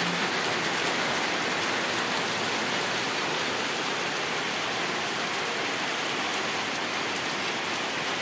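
Heavy rain falling steadily on a waterlogged yard, an even hiss that holds unchanged throughout.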